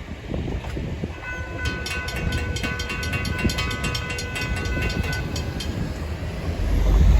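Florida East Coast freight train rolling past with a steady low rumble. From about a second in, a high ringing with rapid regular clicks, about five a second, sounds over it and stops after about five seconds; a heavier low rumble builds near the end.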